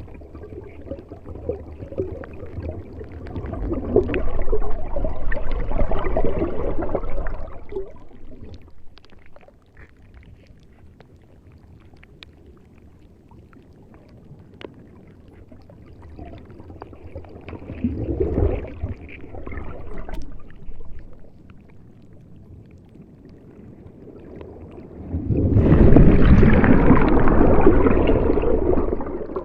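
Water washing and sloshing in three swells, each rising and falling over a few seconds, the last one the loudest.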